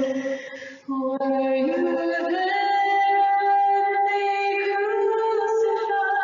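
Singing voices holding long notes that step from one pitch to the next, with a brief break about a second in.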